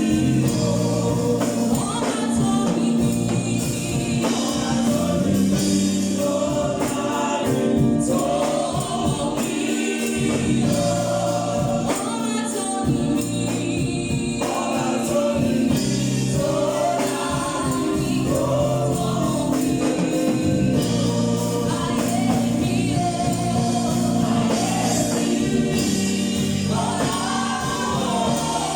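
Gospel choir singing with instrumental accompaniment, voices over steady low notes and a regular percussive beat.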